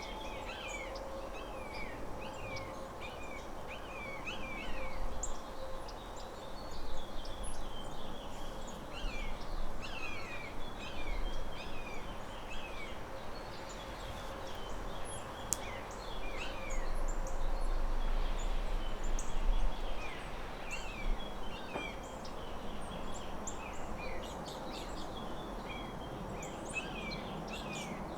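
Small birds chirping and calling, a steady run of short, quick, downward-slurred chips, several birds at once.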